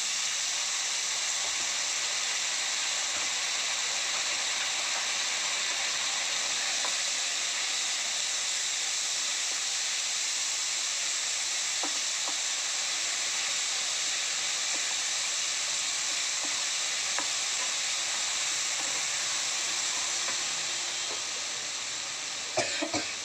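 Grated potato, onions and peanuts frying in hot oil in a kadai while being stirred with a spatula: a steady sizzle that eases a little near the end. A few clicks of the spatula against the pan come just before the end.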